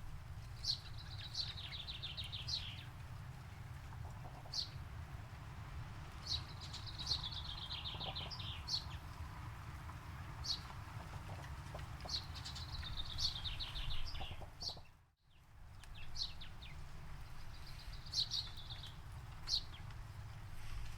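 Songbird singing: a trilled phrase of about two seconds, repeated roughly every six seconds, with short sharp single notes between the phrases. A steady low rumble runs underneath, and the sound briefly drops out about two thirds of the way through.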